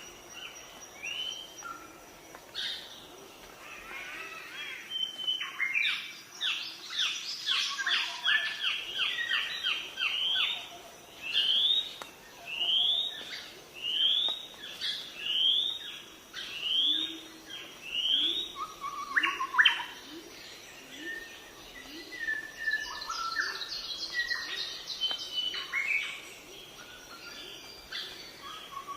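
Birds chirping and calling: a fast run of chirps, then a series of rising notes repeated about once a second, then more scattered chirps toward the end.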